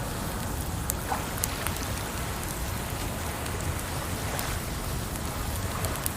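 Campfire crackling, with sharp pops scattered through it at irregular intervals, over a steady rush of water.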